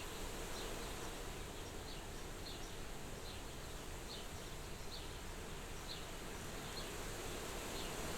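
Soft steady wind at a farmhouse window, with a faint high chirp, a short falling note, repeating about once a second.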